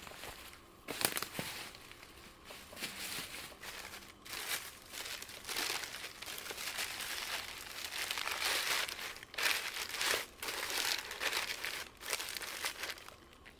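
Irregular rustling and crunching of dry forest litter being disturbed, with a few sharp snaps about a second in.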